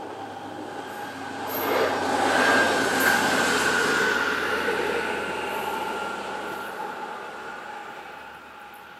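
Train passing on the line at a closed level crossing. The running noise swells to a peak about two to three seconds in and then fades away, over a steady high-pitched whine.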